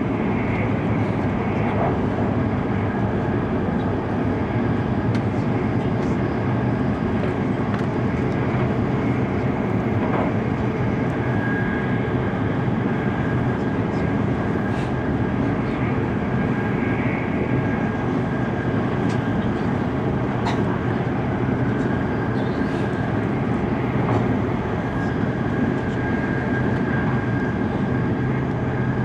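Cabin noise inside an E5 series Shinkansen running at speed: a steady rumble and rush of running noise, with a faint steady high tone and a few faint ticks.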